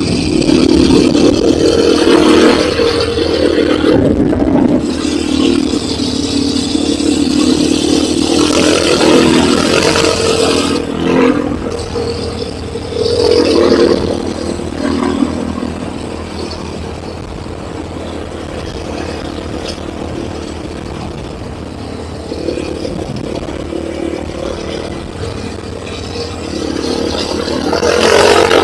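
Enduro motorcycle engine running under way, revving up and down as the throttle is worked. It eases to a steadier, quieter run for much of the second half, then rises again near the end.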